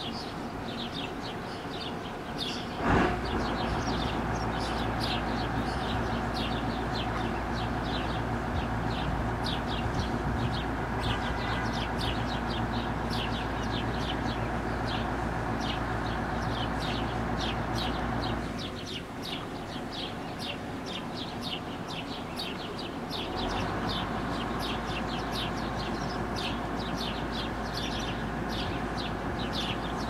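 Small birds chirping rapidly and continuously, over a steady low rumble that starts suddenly about three seconds in, drops away for about five seconds past the middle, then returns.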